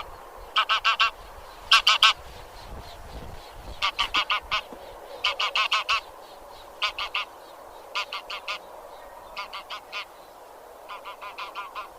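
Geese of the genus Anser (grey geese) honking in quick runs of three to five calls, a new run every second or two.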